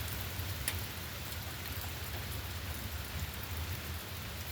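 Steady rain falling, an even hiss, with one faint click about two-thirds of a second in.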